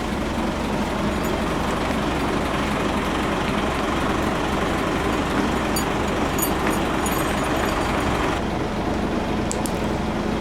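Engine of a large vehicle, likely a truck, idling steadily; the hissing part of the noise drops away about eight seconds in.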